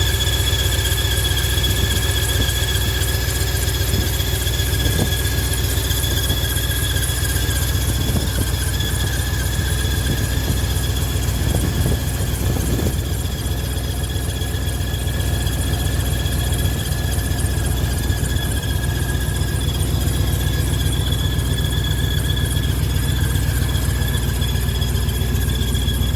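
A 1995 Chevy HD3500 dually truck's engine running steadily, with a steady high-pitched squeal over the low rumble.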